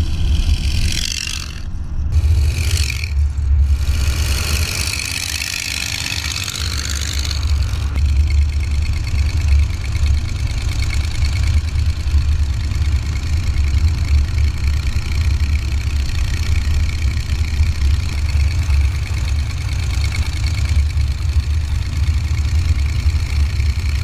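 Chevy 283 small-block V8 in a 1929 Ford Model A hot rod truck, breathing through short open stub exhaust pipes, running with a steady low rumble as it drives. A rushing hiss rides over it for the first several seconds.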